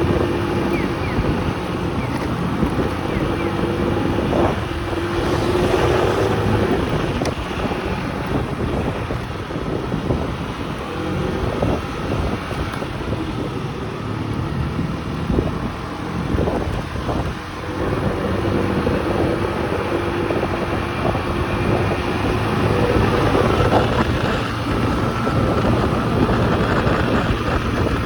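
Small motorcycle engine running while riding, its note rising and falling with the throttle, with wind rushing over the microphone.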